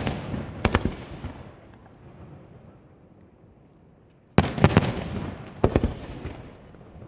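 Fireworks bursting in two volleys: a cluster of sharp bangs right at the start and another about four and a half seconds in, each trailing off in a rumble that fades over a couple of seconds.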